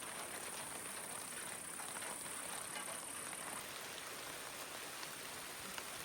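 Steady rain with scattered faint drop ticks. A high, thin steady hiss sits above it and cuts off a little past halfway.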